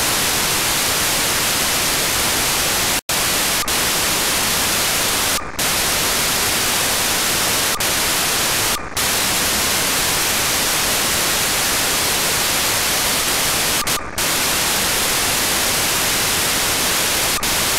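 Demodulated audio from an RTL-SDR receiver tuned to 433.475 MHz: a steady, loud hiss of static. It is broken a few times by brief gaps, once cutting out completely about three seconds in, and three times dipping into a short muffled drop.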